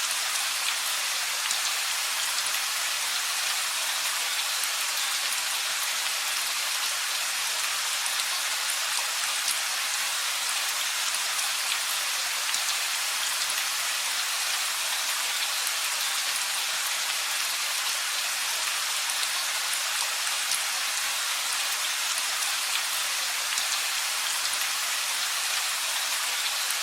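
Steady rain falling: an even hiss with fine scattered drop ticks, holding at one level throughout.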